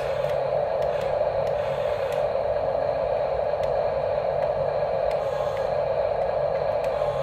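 Small electric gear motors of radio-controlled construction models running steadily, a dense drone with a few light clicks.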